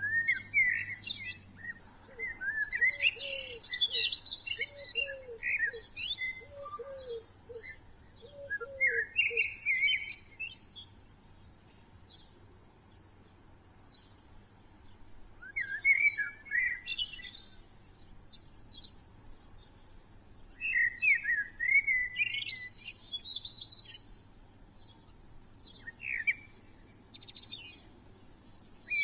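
Small birds chirping and twittering in bouts of a few seconds at a time. Within the first ten seconds a lower note repeats about six times, roughly once a second.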